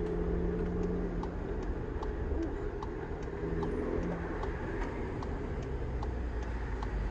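The Polo GTI's 2.0-litre turbocharged four-cylinder engine and intake running steadily at low road speed, heard from inside the cabin, with its note shifting about halfway through. A light, regular ticking, about three a second, runs beneath it.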